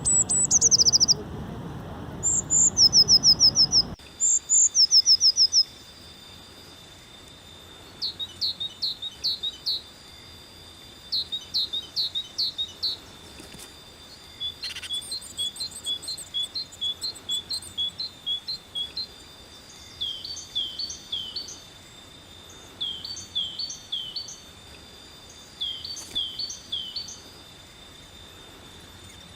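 Birds singing: phrases of quick, high, down-slurred chirps repeated every couple of seconds, loudest in the first few seconds and softer after that.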